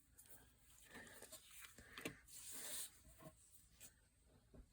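Very faint paper-handling sounds: a few light ticks and a brief soft scrape of paper, a little over two seconds in.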